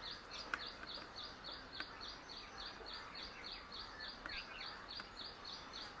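Faint outdoor birdsong: a short high chirp repeated evenly about four times a second, with a few scattered fainter calls among it.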